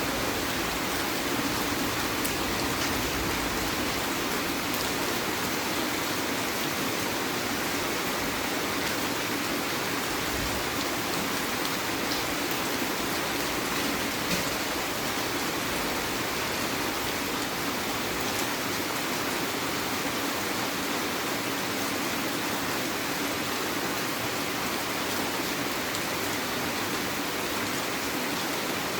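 Steady heavy rain falling and pattering on surfaces, an even hiss with faint scattered drop ticks.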